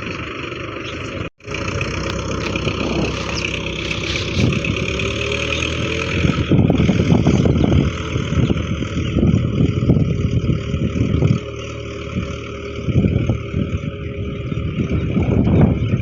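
Tractor engine running steadily. The sound cuts out for an instant about a second in.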